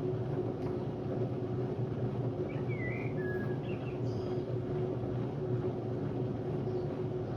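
Hotpoint Ultima WMD960 washing machine running with a steady low rumble and a steady whine; its drum bearings are worn. Birds chirp a few times over it.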